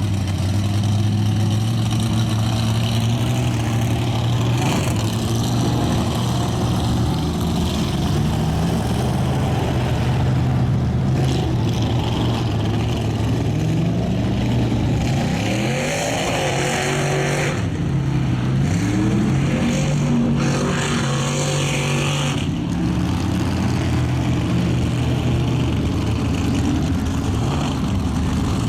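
Ford mud-bogging truck's engine running hard, holding a steady pitch and then revving up and down repeatedly as it bogs through the mud pit. Two loud bursts of rushing noise come over it about halfway through.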